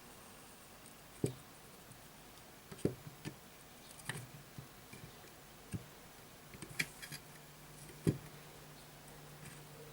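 Scattered small clicks and taps of hand tools working on a circuit board during desoldering, irregular and spread apart. A steady low hum comes in about seven seconds in.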